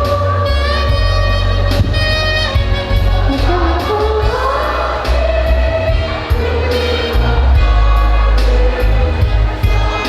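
School choir singing a song with instrumental accompaniment under a heavy, steady bass.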